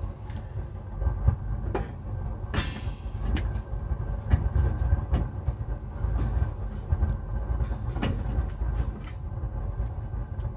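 Several sharp metal knocks and clanks as a heavy truck brake drum is handled and pushed onto the hub, over a steady low rumble.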